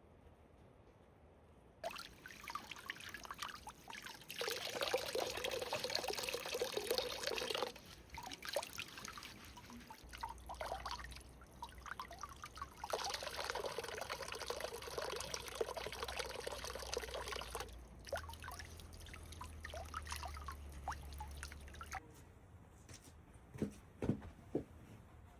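Water being poured in two long pours of several seconds each, with patchy trickling and dripping between them.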